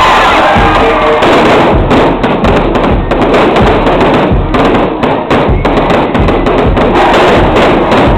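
Fireworks going off in a rapid, irregular string of bangs and crackles, thickening about two seconds in and loud enough to overload the recording.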